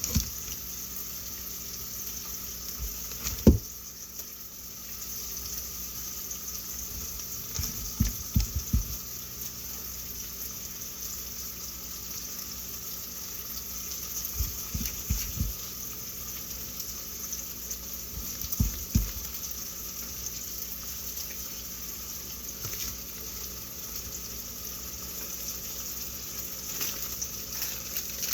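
Food sizzling steadily in a frying pan, with a few dull knocks now and then from utensils or cookware.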